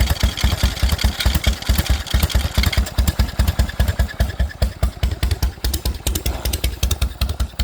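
Harley-Davidson Shovelhead V-twin idling with its uneven 'potato potato' lope, running on an S&S Super B carburetor. The exhaust pulses come steadily at about five or six beats a second.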